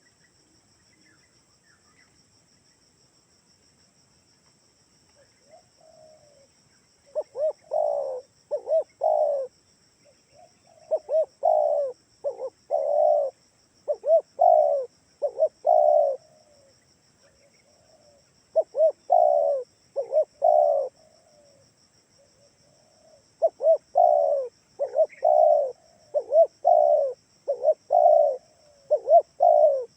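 Spotted dove cooing: after a few quiet seconds, a run of bouts of rolling coos, several notes to each bout, with short pauses between bouts.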